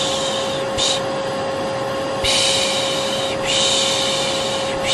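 Vacuum cleaner running with a steady motor hum. Over it, a person makes repeated long 'shhh' shushing sounds to lull a baby to sleep: a short one about a second in and two long ones in the second half.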